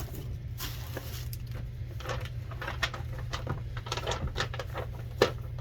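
Bags rustling and crinkling as items are handled and taken out, with irregular small crackles and one sharper knock about five seconds in, over a steady low hum.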